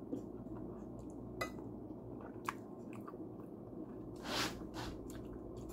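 A person chewing a bite of cooked golden oyster mushroom stem, with a few faint clicks and one brief louder noise about four seconds in, over a low steady hum.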